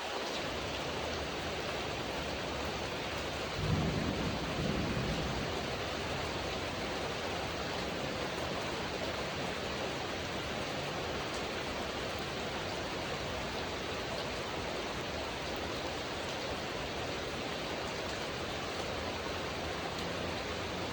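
Steady heavy rain falling, with a short low rumble of thunder about four seconds in.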